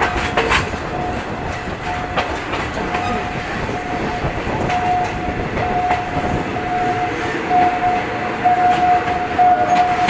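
Passenger train carriage running on the rails, heard through an open window: a steady rumbling wheel and track noise. From about a second in, a repeating high single-pitched ringing comes through and grows steadily louder: the warning signal of a level crossing that the train is approaching.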